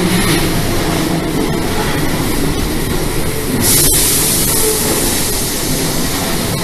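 Keio Line electric train running past a station platform: a steady rumble of wheels on rails. A bright hiss joins about three and a half seconds in and fades a second or so later.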